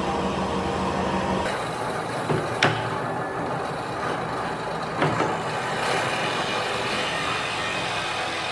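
A motor running steadily, with a sharp knock about two and a half seconds in and another about five seconds in.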